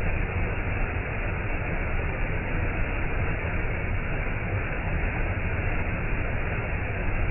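Waterfall rushing in a steady, unbroken roar, heaviest in the low end.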